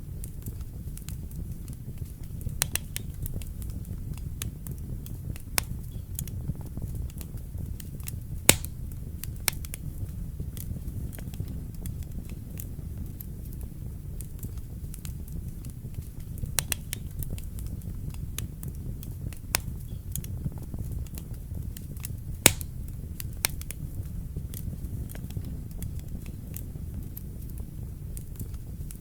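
Wood fire burning in a fireplace: a steady low rumble of the flames with scattered crackles and sharp pops of the burning logs, two louder pops standing out.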